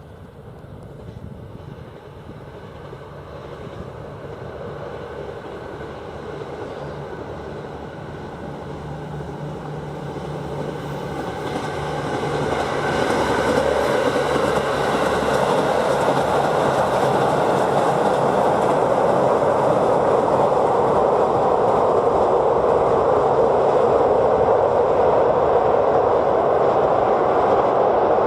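KiHa 85 diesel multiple unit limited express running over a railway bridge at high speed: the sound of its engines and wheels swells as it approaches over the first dozen seconds, then stays loud as the cars pass over the bridge.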